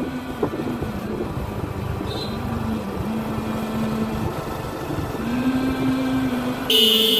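Suzuki Gixxer single-cylinder motorcycle engine running under way, its drone holding steady, dipping and rising again with the throttle, over rushing wind and road noise. Near the end there is a brief loud shrill blare.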